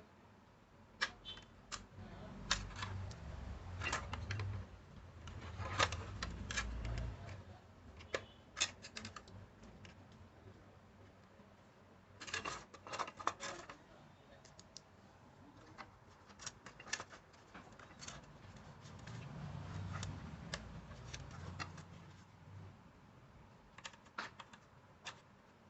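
Irregular light clicks and taps of small hard objects being handled, with low rumbling handling thumps in two stretches, in the first third and again past the middle.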